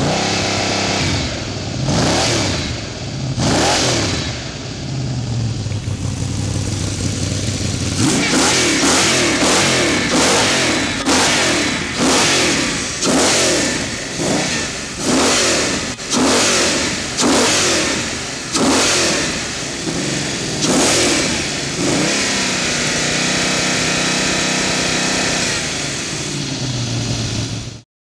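RPi V8 engine being revved with no air filter fitted, giving a hooting induction sound. A few slow rises early on, then quick blips of the throttle about once a second, then a held higher rev for several seconds before the rev drops and the sound cuts off abruptly.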